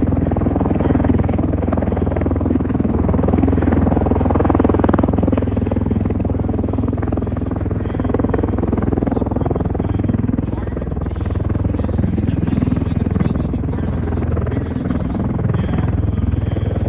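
MV-22 Osprey tiltrotor's proprotors and turboshaft engines running, a steady low rumble that holds throughout.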